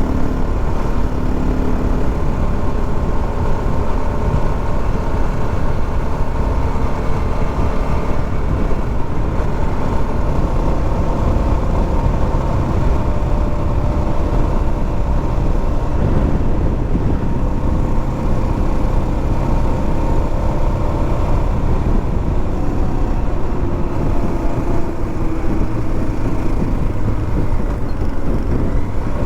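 Motorcycle riding at road speed: the engine runs steadily under heavy wind noise on the microphone.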